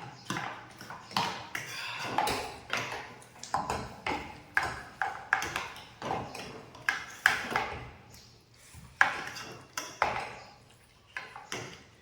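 Metal cutlery clinking and scraping on a metal plate while noodles are eaten: a quick, uneven run of sharp clinks with a short ring, thinning out after about eight seconds.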